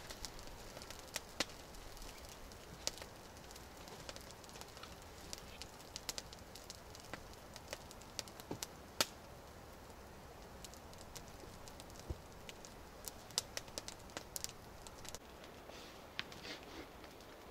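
Scattered, irregular sharp snaps and cracks of dry twigs and wood over a faint forest background.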